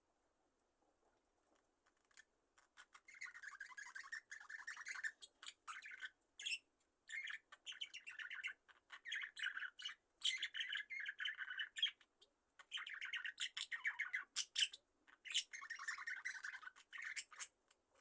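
Budgerigars chirping and warbling in quick chattering bouts of a second or two, starting about two seconds in and ending just before the end.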